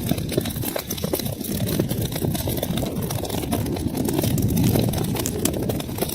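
Wood fire burning in a fireplace: a steady low roar of flames with many quick, sharp crackles and pops from the burning logs.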